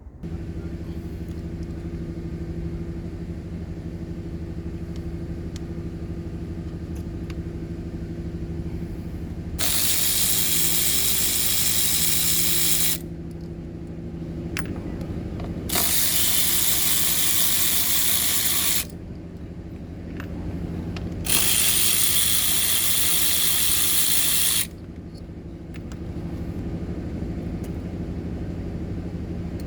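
A steady mechanical hum, broken three times by loud hissing rushes of about three seconds each.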